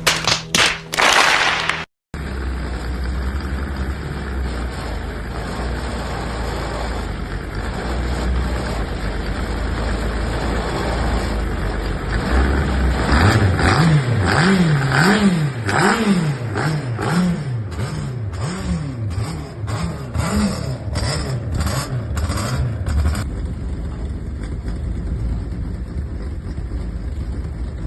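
Small car engine, which sounds like a Corolla, running after five years unused. It idles steadily, then is revved in a series of quick blips for about ten seconds, and settles back to idle near the end.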